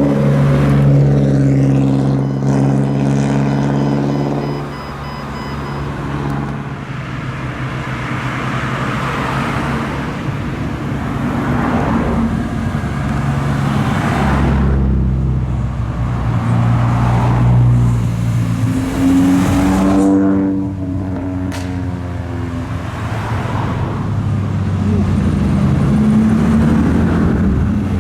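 Modified cars with loud exhausts moving off at low speed, engines running and revving, with one rev rising and then cutting off about twenty seconds in.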